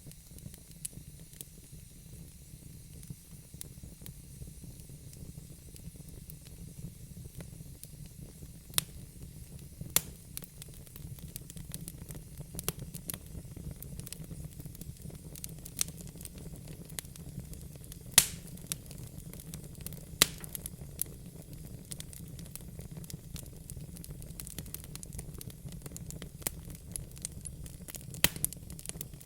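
Wood fire in a fireplace crackling, a steady low rumble and hiss of the flames broken by scattered sharp pops, the loudest a little over halfway through.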